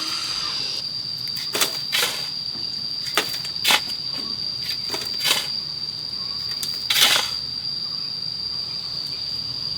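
A handful of sharp knocks and clacks at uneven intervals, the loudest about seven seconds in, over a steady high-pitched insect drone.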